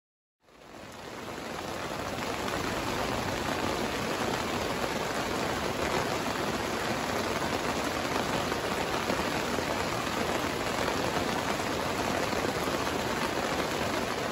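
Steady, dense rain, heard from inside a tent. It fades in over the first couple of seconds, then holds even.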